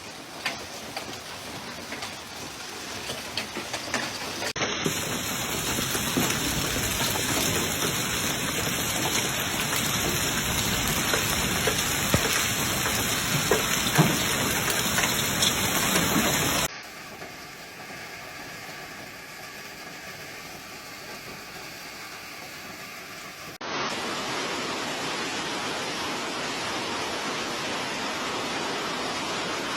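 Storm downpour: heavy rain pouring steadily, with scattered sharp hits early on and around the middle. The sound changes abruptly about 5 seconds in, drops to a quieter wash about 17 seconds in, and swells back up about 24 seconds in.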